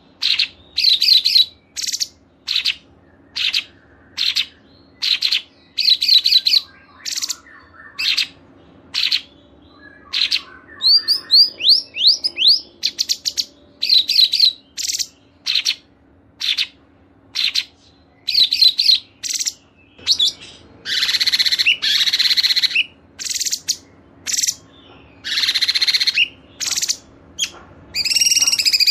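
Songbirds singing in a mix of short, clear chirps and trills, each phrase broken by a brief pause, with a run of quick falling whistled notes partway through and longer, denser song phrases later on. A faint steady low hum runs underneath.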